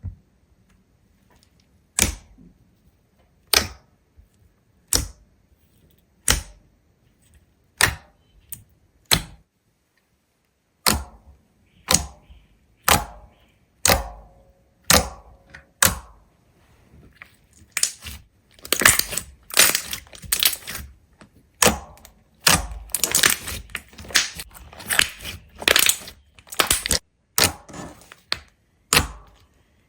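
A series of sharp cracks or clicks, one about every second and a half at first, then coming quicker and more crowded through the second half.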